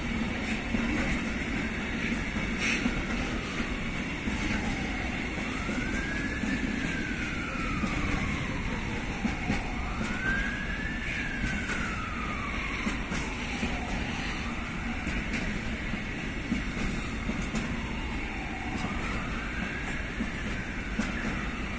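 Long container freight train rolling past, its wagons giving a steady rumble and rattle of wheels on rail. Over it a faint wail rises and falls, repeating about every four to five seconds.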